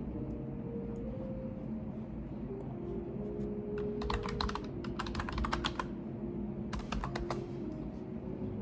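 Computer keyboard typing in two short runs of key clicks, one about four seconds in lasting nearly two seconds, and a shorter one about seven seconds in, over a steady low room hum.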